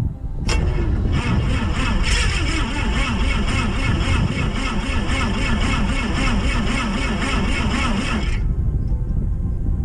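Light airplane's electric starter cranking the cold engine: a click, then about seven seconds of rhythmic turning over that stops abruptly without the engine catching, on a battery that is running flat.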